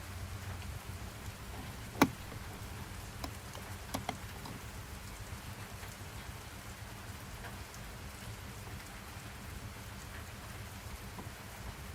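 Steady rain sound, an even hiss with a low rumble underneath. A single sharp click about two seconds in, then a few fainter clicks a second or two later.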